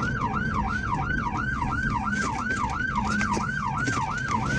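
Police car siren in fast yelp mode, sweeping up and down about four times a second, over steady road and engine noise.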